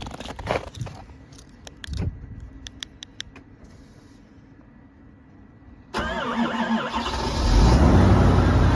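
A few faint clicks, then the 2020 Ford F-450's 6.7 L Power Stroke V8 turbodiesel cranks over suddenly about six seconds in on a remote cold start at about −28 °C, catches a second or so later and runs loud and steady at a cold idle.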